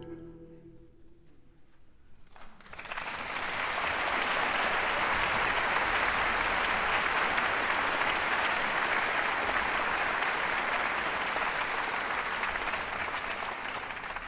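Audience applauding, starting about two and a half seconds in once the last sung note has died away, then holding steady and tapering off near the end.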